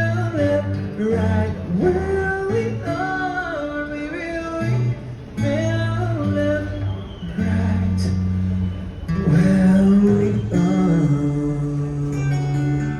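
Live singing with acoustic guitar accompaniment.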